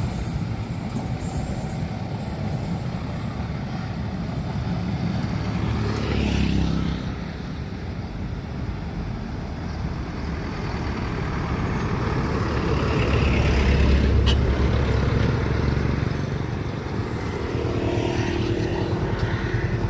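Road traffic passing: vehicles drive by one after another, one with a falling pitch about six seconds in, and a heavier one rumbling loudest around the middle.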